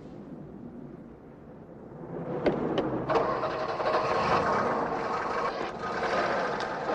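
Car engine running quietly, then from about two and a half seconds a couple of sharp clicks and a much louder, sustained engine sound as it is revved.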